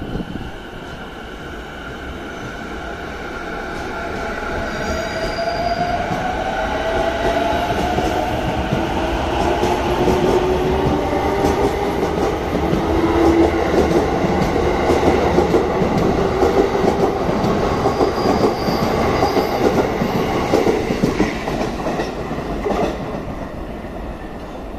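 E233-5000 series electric train pulling out and gathering speed: the inverter-driven traction motors whine, climbing slowly in pitch as it accelerates, over the rumble of wheels on the rails. It grows louder towards the middle as the cars pass, then eases off near the end.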